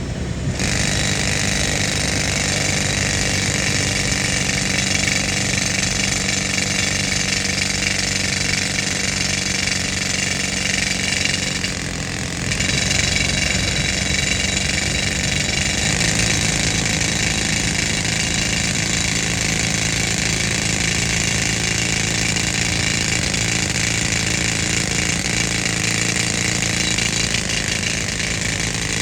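Pneumatic rock drill hammering steadily on compressed air, with the old air compressor's engine running underneath as a steady hum. The drilling starts suddenly at the very beginning and briefly drops off about twelve seconds in.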